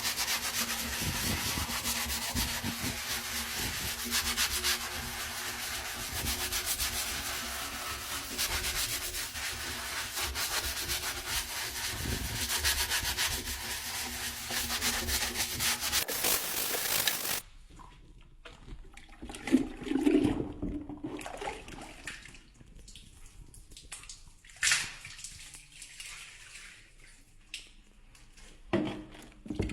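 Continuous brisk scrubbing, a stiff brush or pad rubbing hard over a surface, that stops abruptly about two-thirds of the way through. Quieter scattered knocks and taps of handling follow.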